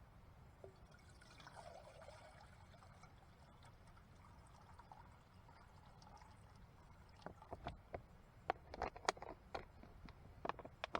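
Faint trickle of liquid being poured, then a series of light clicks and knocks in the last few seconds.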